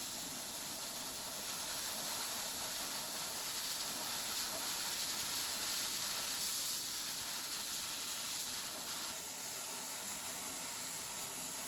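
Steady, even hiss with no clear pitch, strongest in the high range, starting suddenly.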